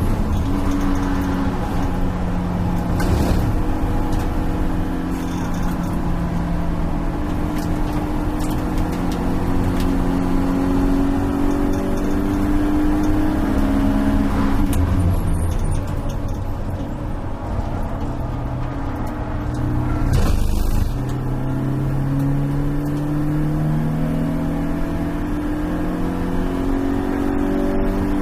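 Stock four-cylinder engine of a BMW E36 318is race car under hard driving, heard inside the stripped cabin with road and tyre noise. Its pitch climbs slowly through the revs and drops back several times at shifts and braking, with a brief loud rush of noise about twenty seconds in.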